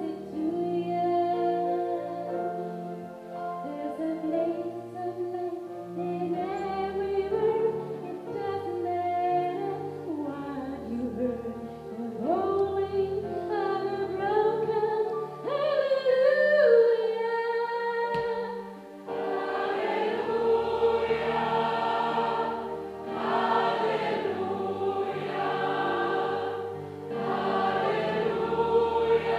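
Gospel choir singing held chords over low bass notes, the voices moving and sliding between pitches; about two-thirds of the way in the singing grows fuller and brighter.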